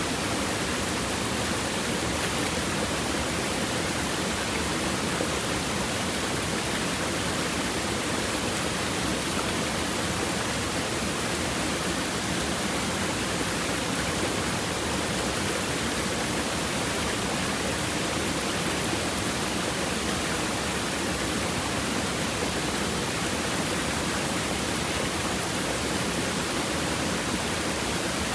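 River water babbling steadily over and between stones, an even rushing without breaks.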